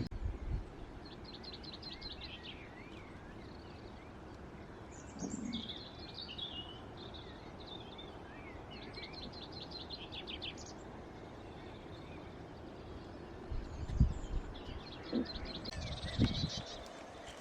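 Small birds singing in woodland: short, rapid, high trills repeated every several seconds, with other chirps between them. A few low knocks come near the end.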